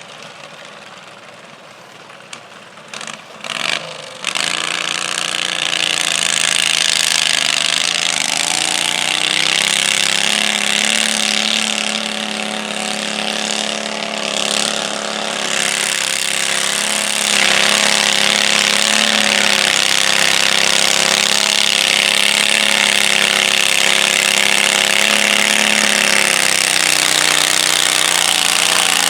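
A stock-class garden tractor engine blips a few times, then runs hard and steady at high revs under load, getting louder about two-thirds of the way through.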